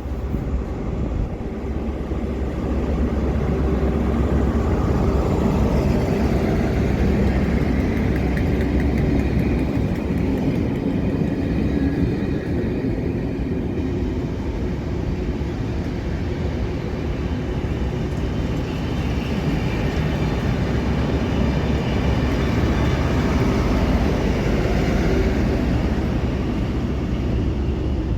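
A train passing: a loud, steady rumble and rattle that builds over the first few seconds.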